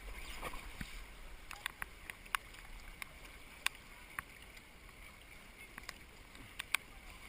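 Canoe paddling on a creek: irregular sharp knocks of paddles against the canoe hull over a steady rush of moving water.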